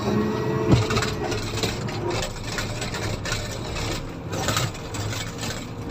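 Komatsu motor grader's diesel engine running steadily, with frequent rattles and clatters and one sharp knock a little under a second in.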